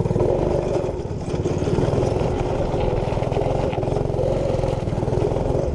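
Small 212cc single-cylinder four-stroke engine with an aftermarket exhaust running steadily at speed on a minibike being ridden, its exhaust note loud and rapid.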